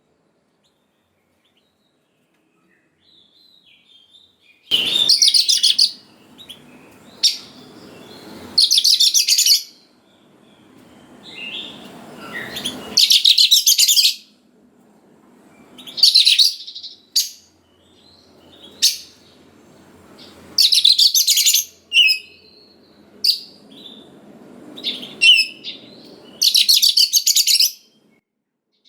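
Oriental magpie-robin (kacer) singing loudly in full song. It delivers a series of dense, rapid phrases of about a second each, separated by short single notes and brief pauses. The song starts about three seconds in.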